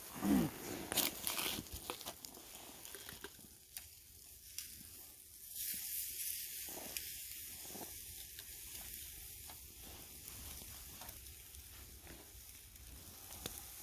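Pork chops sizzling on a grill over a campfire, a steady high hiss, with a few sharp clicks in the first couple of seconds.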